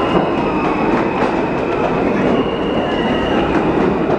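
Subway train running: a steady, loud rumble of the wheels on the track, with a faint high wheel squeal.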